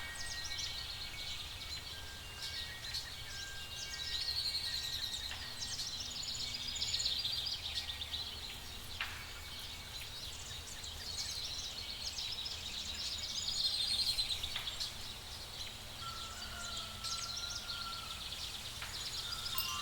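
Night-forest ambience: a dense, rapidly pulsing high chirping chorus that swells and fades several times over a steady low rumble. A brief wavering whistle-like call rises out of it about three quarters of the way through.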